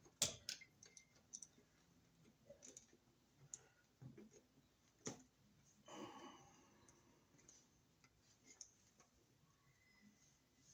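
Faint, scattered clicks and handling noise of a short ground wire being bent around a wall receptacle's green ground screw, with a brief rustle about six seconds in.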